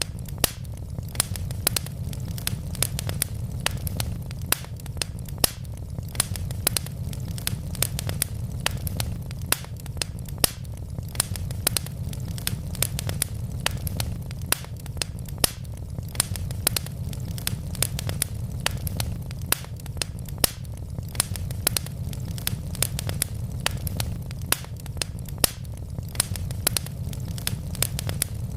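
Wood fire of burning logs in a fireplace crackling: a dense run of sharp pops and snaps, several a second, over a steady low rumble of the flames.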